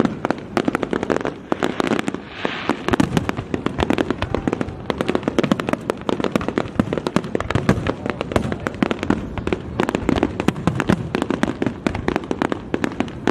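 Aerial fireworks going off in a rapid barrage of bangs and crackles, many each second, growing denser after a few seconds.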